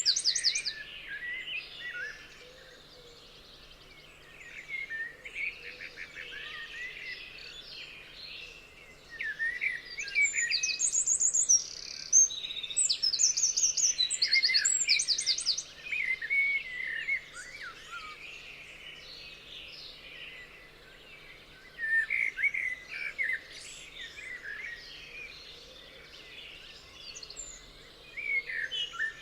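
Several songbirds singing and calling over one another: overlapping chirps, quick trills and short whistles, busiest and loudest around the middle.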